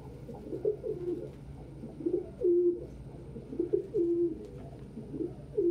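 Domestic pigeons cooing: a run of short, low coos, one about every second, the loudest about two and a half seconds in.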